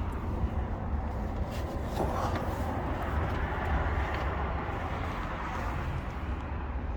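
Heavy vehicle engine running with a steady low rumble. A rushing hiss swells up about two seconds in and dies back by about five seconds.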